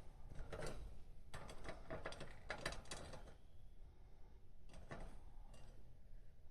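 A budgerigar pecking and nibbling at something, making irregular quick clicks and scratches. They come thickest from about one to three seconds in, then a few scattered ones.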